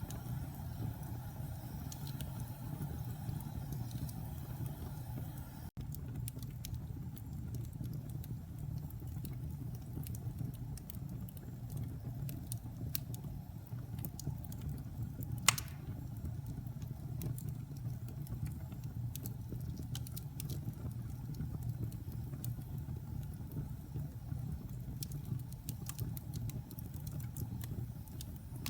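Wood fire burning in a fireplace: a steady low rumble of flames with scattered small crackles and one sharp, loud pop about halfway through.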